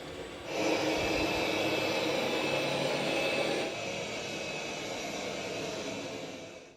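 Robot vacuum cleaner running: its suction steps up louder about half a second in, eases down a little after about three and a half seconds, and cuts off near the end.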